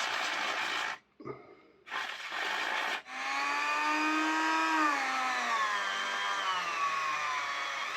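Two short hissing bursts, then a small electric motor starts and runs with a high whine. About two seconds later the pitch sags, then recovers near the end, as if the motor is loaded and released while cleaning.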